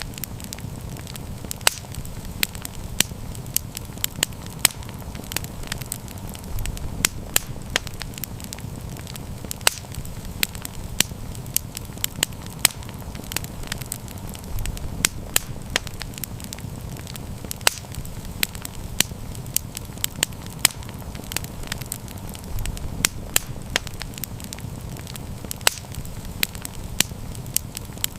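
Wood campfire burning: sharp crackles and pops several times a second over a steady low rumble of the flames.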